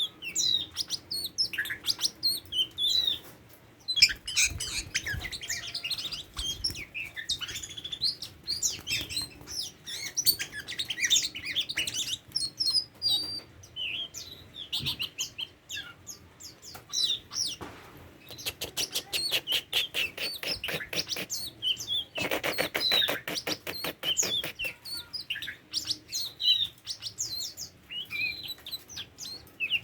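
Oriental magpie-robin (kacer) singing a varied song of clear whistles and chirps, broken past the middle by two runs of fast, rattling repeated notes.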